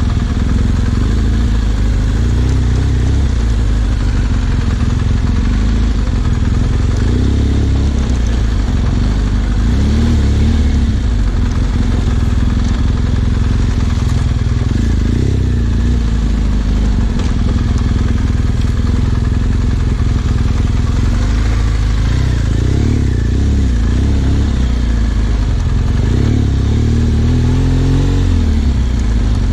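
Trail motorcycle engine running while riding on a dirt track, its pitch rising and falling several times with the throttle.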